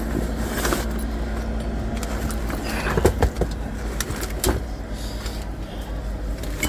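Steady low rumble of a vehicle running, with scattered clicks and knocks as straps are handled to tie down a load.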